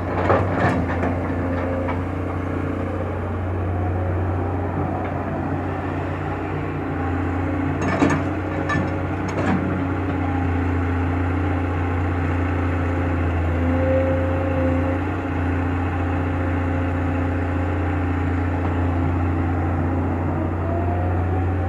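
Diesel engine of a heavy excavator running steadily at a low, even drone, with a few sharp metal knocks just after the start and three more about eight to nine and a half seconds in.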